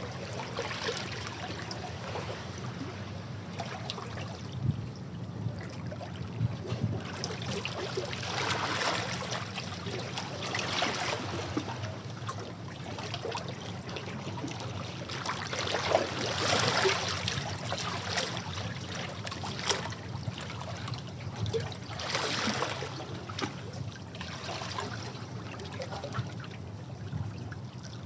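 Sea waves washing over rocks: a steady rush of water that swells every few seconds, with small sharp splashes.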